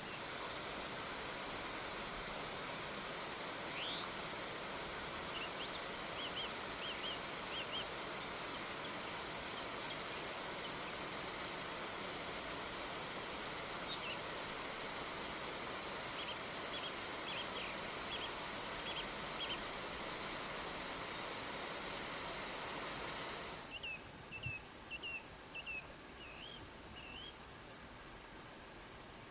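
Steady rushing of flowing water, with small birds chirping in short repeated notes over it. About 23 seconds in, the rush cuts off abruptly and only quieter forest ambience with the same kind of bird chirps remains.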